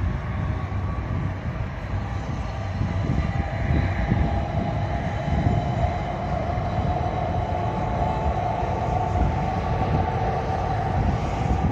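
Trains passing on the electrified main line: an electric multiple-unit passenger train going by alongside a train of tank wagons, a steady rumble of wheels on rails. A steady whine joins in from about five seconds in.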